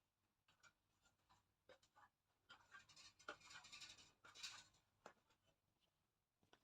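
Faint scratching and rustling with scattered light clicks, densest in the middle, as of an air-conditioner filter being handled.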